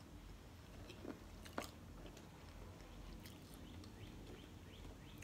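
Faint chewing of food with the mouth closed, with two soft mouth clicks about a second and a second and a half in.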